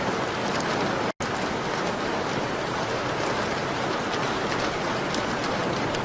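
Steady rain on a window pane mixed with a fireplace, with faint scattered ticks of drops or crackles. The sound cuts out completely for a split second about a second in.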